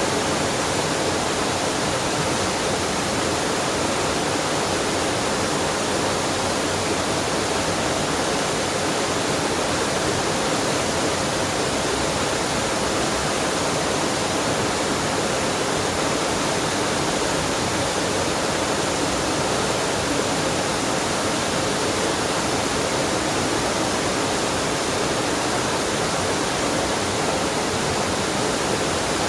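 Waterfall and mountain stream rushing steadily.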